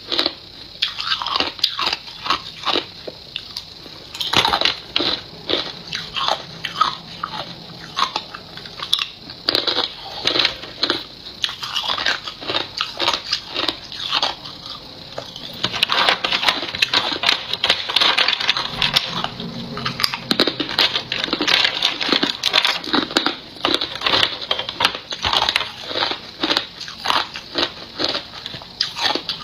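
Close-up biting and chewing of hard ice: a dense run of sharp crunches and crackles, several a second, as the ice is bitten and crushed between the teeth.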